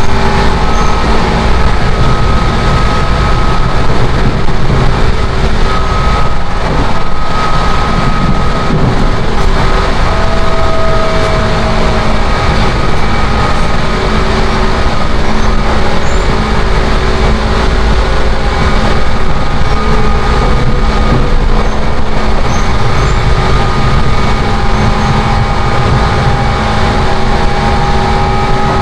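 Seibu 10000 series Red Arrow limited express train running at speed, heard from inside the passenger car: a loud, steady rumble of wheels and running gear with faint steady whining tones over it.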